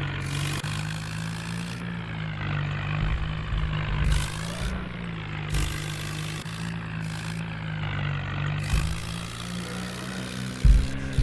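Tractor engine running steadily, with a sudden heavy thump near the end.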